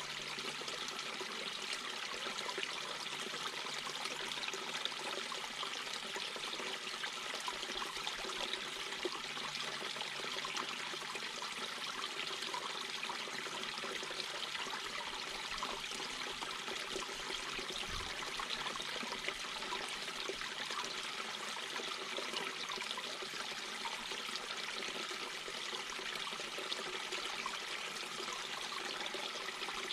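Mountain brook babbling over rocks: a steady, even rush and trickle of running water.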